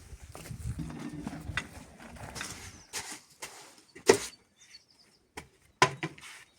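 A low rumble for the first few seconds, then irregular sharp knocks and clatters of hard objects, the loudest about four seconds in.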